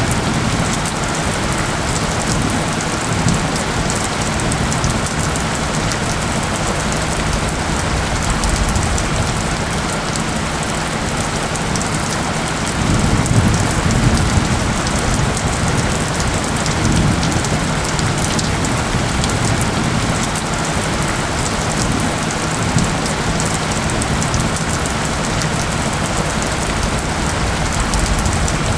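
Steady rain pattering on surfaces, with a steady low tone underneath and a low rumble swelling about halfway through.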